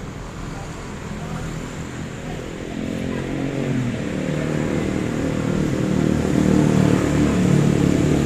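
A motor vehicle engine running, growing steadily louder over the last few seconds.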